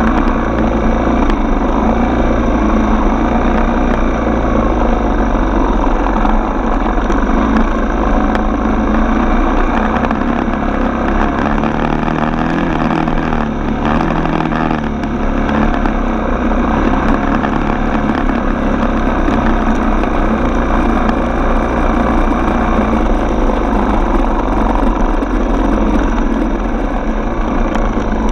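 Single-cylinder four-stroke dirt bike engine running steadily while riding, its pitch wavering up and down briefly about halfway through.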